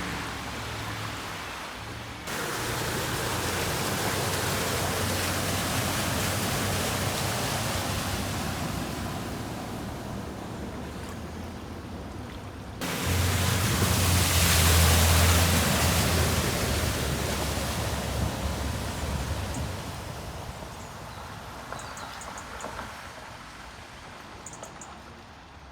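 Steady rushing of floodwater, jumping abruptly louder about two seconds in and again about thirteen seconds in, where a deep rumble joins it for several seconds. It then fades off, with a few faint high chirps near the end.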